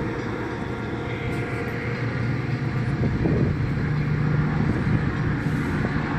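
A train passing through the station, a steady diesel rumble that grows a little louder about halfway through.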